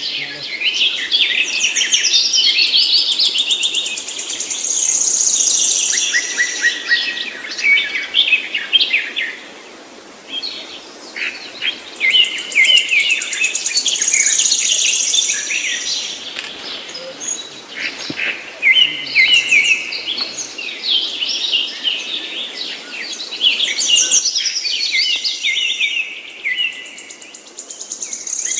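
Songbirds chirping and singing in rapid, dense phrases, with a high, buzzy note coming back every nine or ten seconds.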